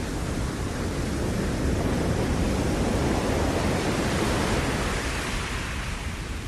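Ocean waves breaking on the shore: a rush of surf that swells over the first few seconds, is fullest around the middle, and eases off near the end.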